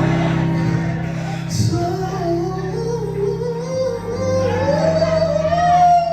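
Church worship music: a woman singing a slow, sliding melody over held chords.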